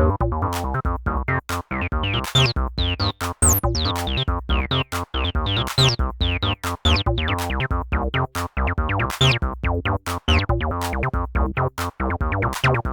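Behringer TD-3-MO (a TB-303-style bass synth) playing a fast sequenced acid bassline. Each note has a resonant filter sweep that drops quickly, giving a squelchy, chirping pattern.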